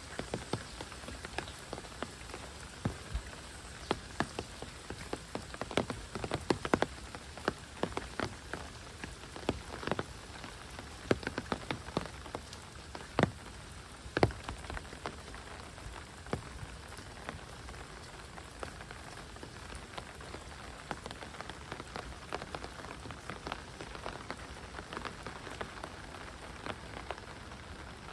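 Heavy rain falling steadily, with many sharp, close drops striking nearby, thickest in the first half and thinning out after the middle.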